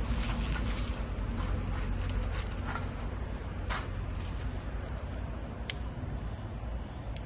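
Wood fire burning in a compact portable fire pit: scattered crackling with a few sharper pops, over a steady low rumble.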